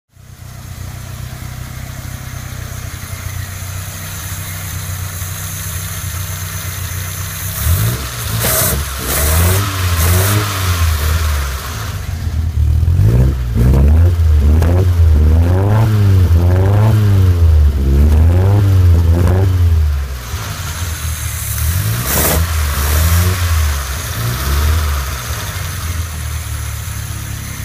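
1976 Lancia Scorpion's twin-cam four-cylinder engine running after six years laid up: it idles, then from about eight seconds in it is revved up and down over and over, falls back to idle after about twenty seconds, and is blipped once more.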